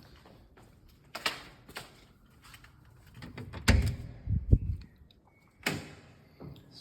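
A door being opened and shut: a few light knocks, then a louder cluster of thuds about halfway through and one more knock near the end.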